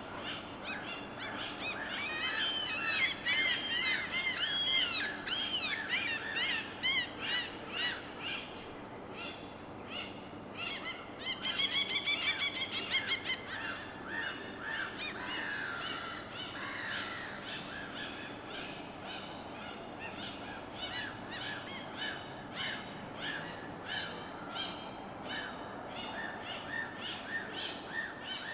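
Several birds calling and singing: clusters of short, arching chirps in the first few seconds, a rapid high trill about halfway, then a steady run of repeated calls. Beneath them runs a steady low wash of water.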